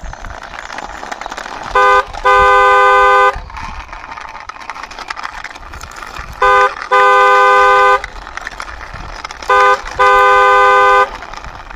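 Car horn honking: three times, each a short beep followed at once by a longer one of about a second, over a steady rustling hiss.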